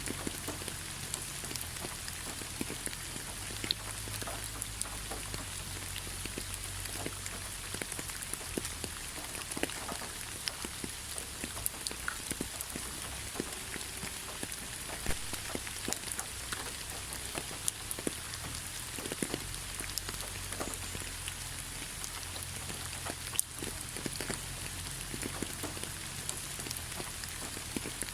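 Steady rain falling on a forest road, with many separate drops tapping close by over the even hiss.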